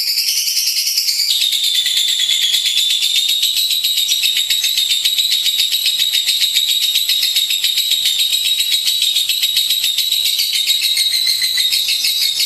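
Lovebird singing one long, unbroken, rapid high-pitched trill. Its pitch steps down slightly about a second in, then holds steady.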